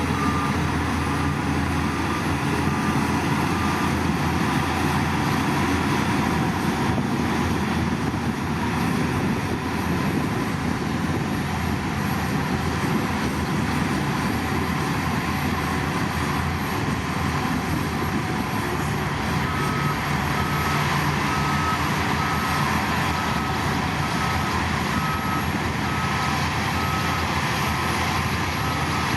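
A heavy diesel machine's engine runs steadily. A reversing alarm beeps in a regular pulse, roughly one to two beeps a second, during the first few seconds and again from about two-thirds of the way in.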